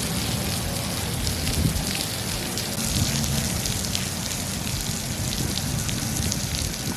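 Steady rain falling, with many small drops pattering throughout, over a low rumble.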